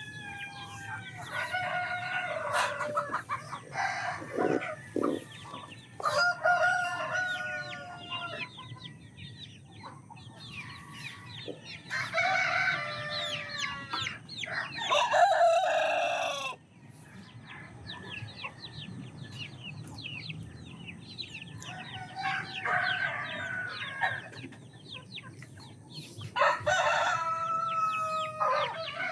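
Chickens clucking and calling in repeated bursts, with a rooster crowing among them; the loudest call comes about halfway through.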